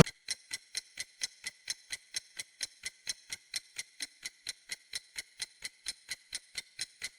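Steady clock-like ticking from a quiz countdown timer, sharp even ticks at about four a second.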